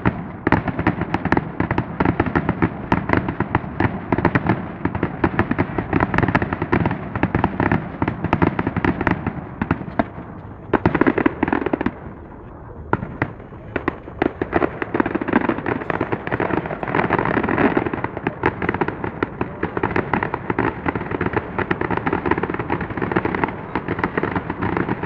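Fireworks display: many sharp bangs and crackling bursts in quick, dense succession, with a short lull about twelve seconds in before the bursts pick up again.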